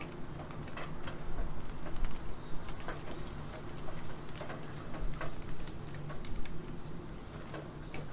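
Computer keyboard typing in slow, irregular keystrokes over steady rain noise.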